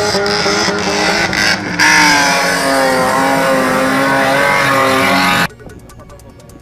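Racing stock car engines running hard, their notes shifting up and down in pitch. The sound cuts off suddenly about five and a half seconds in, leaving something much quieter.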